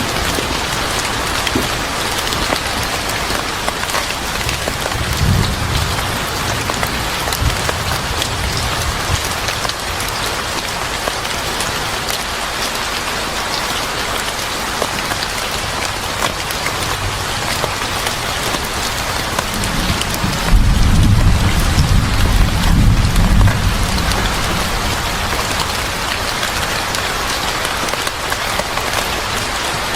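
Steady heavy rain falling on a surface, with a low rumble of thunder rolling in about twenty seconds in and fading a few seconds later.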